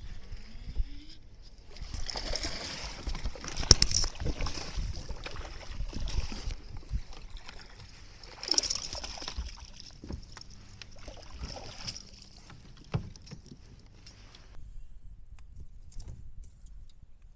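Water sloshing and splashing around a kayak, with a few sharp knocks, the loudest about four seconds in; the splashing dies away near the end.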